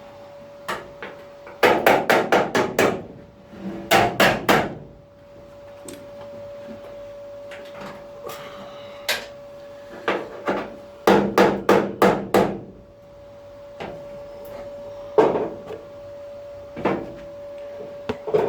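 Small hammer striking a car's steel body panel in quick runs of several blows, with single blows in between. A steady hum runs underneath.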